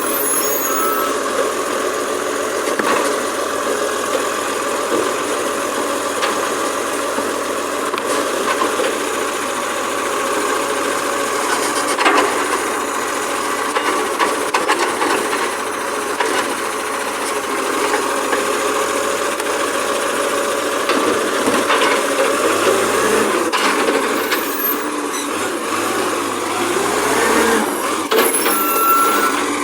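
Garbage truck engine running steadily, with mechanical clatter, a sharp knock about twelve seconds in, and a few brief high squeaks.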